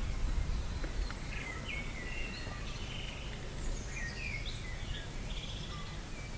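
Birds chirping, a run of short calls and quick downward-sliding notes, over a steady low background rumble.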